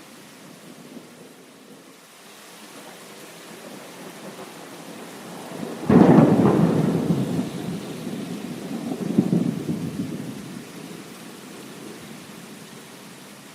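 Steady rain with a clap of thunder about six seconds in: a sudden loud crack that rolls off into rumbling, swells again a few seconds later, then fades back under the rain.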